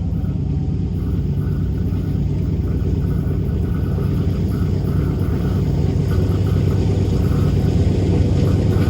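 GE AC4400CW diesel locomotive's V16 engine running with a steady low rumble that grows slightly louder.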